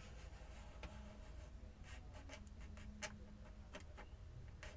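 Faint clicks and taps of a laptop's plastic case being handled and turned over: about six scattered clicks, the sharpest about three seconds in.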